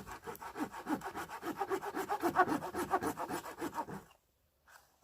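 Hand saw cutting through wood in quick, even back-and-forth strokes, about four or five a second, stopping suddenly about four seconds in.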